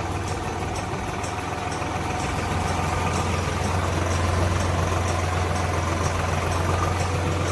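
Tractor's diesel engine running with a steady low drone, growing slightly louder.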